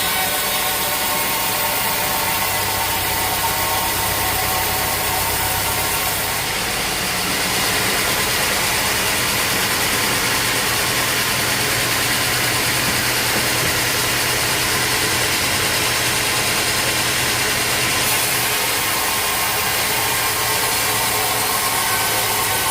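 Sawmill machinery running with a steady mechanical drone and low hum; a high hiss joins about six seconds in and drops out about eighteen seconds in.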